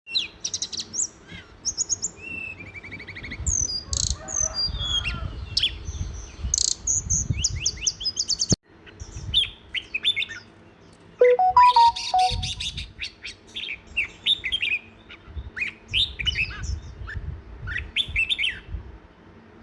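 Several songbirds chirping and trilling in quick, overlapping calls, with a low rumble underneath. The sound breaks off for a moment about eight and a half seconds in, then resumes.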